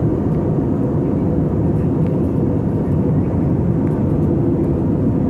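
Steady low rumble of an Airbus A320's engines and rushing air heard inside the passenger cabin in flight.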